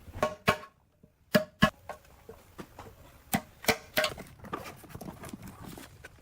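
Irregular sharp taps and clinks of metal parts and tools being handled, a few strikes leaving a short metallic ring.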